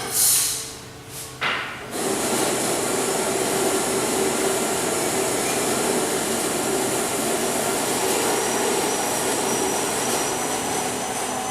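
Two short bursts of noise, then an electric machine starts about two seconds in and runs steadily with a loud, even whirr.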